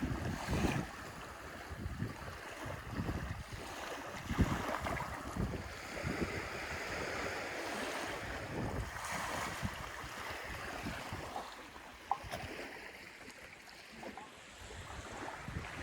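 Waves washing onto a sandy beach, with wind gusting against the microphone in irregular low rumbles.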